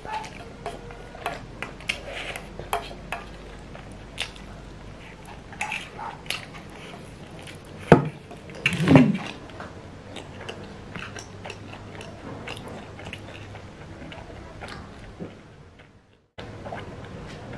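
A person eating spicy Korean noodles: chewing with many small, wet mouth clicks, and a louder burst of mouth noise about eight to nine seconds in. The sound cuts out for a moment near the end.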